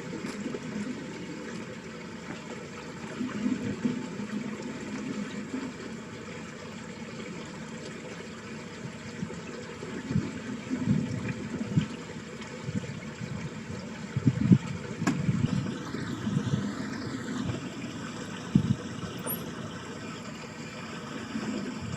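Water running down a small ditch channel, a steady rush with irregular low gurgles and splashes. A faint high whine wavers up and down in the background and then holds a steady pitch in the second half.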